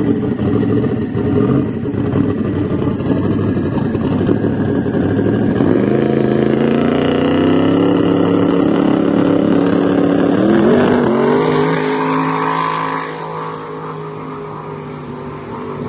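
V8 engine of a V8-swapped Ford Focus running hard, its pitch climbing about six seconds in and again sharply near eleven seconds. It then falls back and gets quieter toward the end.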